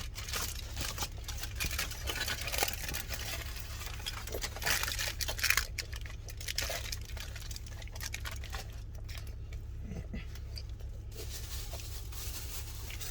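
Wrapper crinkling and rustling as a wrapped chicken gyro is handled and bitten into, with wet eating noises. The crackles are busiest in the first half and thin out later, over a steady low hum.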